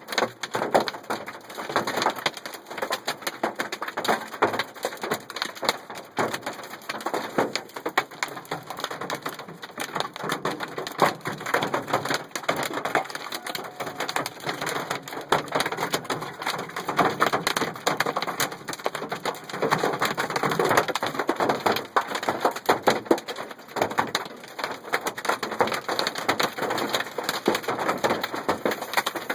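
Hailstones pelting a truck in a dense, continuous clatter of sharp hits, with no let-up.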